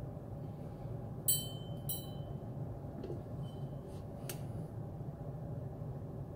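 Steady low hum of room tone, with two sharp clinks that ring briefly about a second in, and a couple of fainter ticks a little later.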